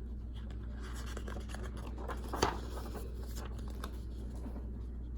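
Paper rustling and scraping as a page of a picture book is turned, with one sharp snap about two and a half seconds in, over a steady low hum.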